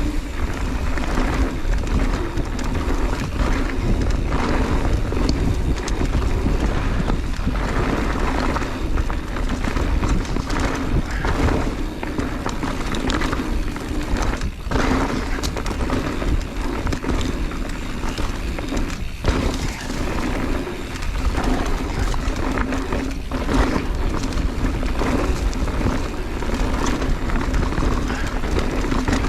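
Mountain bike descending a rocky downhill trail: steady wind rush on the camera mic and tyres rolling over dirt and rock, with frequent knocks and rattles as the bike hits bumps.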